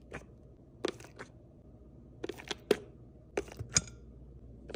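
Light clicks and taps from a dog skin-and-coat supplement container being handled and dispensed over food bowls. Sharp ticks come in small clusters, the loudest near the middle and again near the end.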